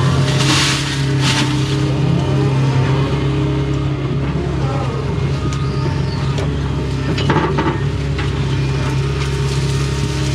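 Doosan excavator's diesel engine running steadily under digging load, with hydraulic tones rising and falling as the boom and bucket work. A few short clunks and scrapes come from the bucket, the clearest about half a second in and again about seven seconds in.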